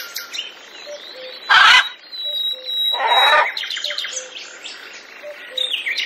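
Moluccan cockatoo giving two harsh screeches, the louder about a second and a half in and another about three seconds in, over a background of small-bird chirping and twittering.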